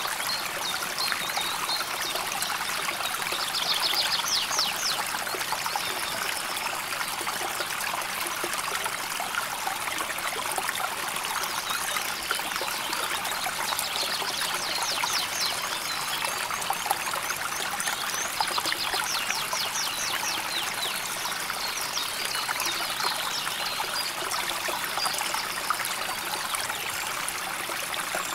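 River water flowing and trickling steadily over stones. Short, high, rapid trills come through several times.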